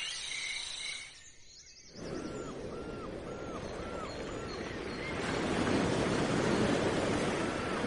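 Outdoor nature ambience: a rushing noise with a short rising-and-falling animal call repeated about twice a second. The sound drops away for about a second early on, then the calls resume and the rushing grows louder partway through.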